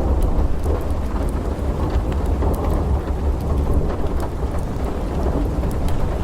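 Steady rain under a deep, continuous rumble of thunder, with scattered sharp crackles and pops from a wood fire.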